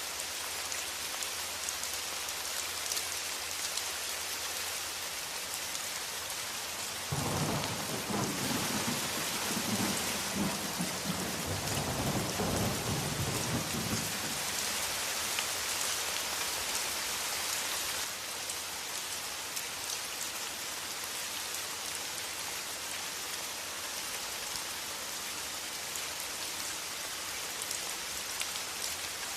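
Steady rain falling, with a roll of thunder that starts suddenly about seven seconds in and rumbles for about seven seconds before dying away.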